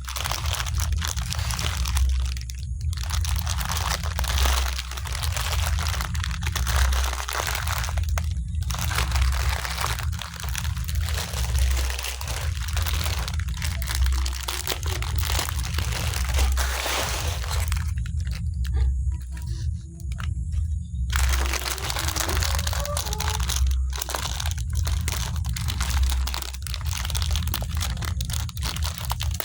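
Close-miked crunching of crispy biscuits, with some crinkling of the packaging. The crunching is dense and continuous, broken by a few short pauses, the longest about two thirds of the way through.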